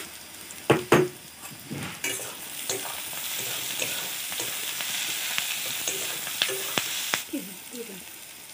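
Sliced onions, garlic and chilli frying in oil in a kadai and being stirred with a spatula: two sharp clanks of the spatula on the pan about a second in, then a sizzling hiss with scraping clicks as the onions are turned, easing off a little after seven seconds.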